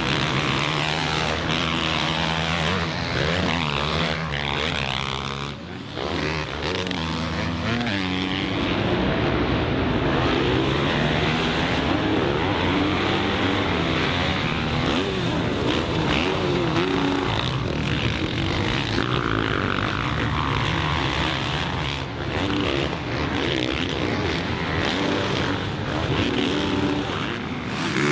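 Motocross bike engines revving hard on track, the pitch repeatedly climbing and dropping as the throttle is worked and gears change.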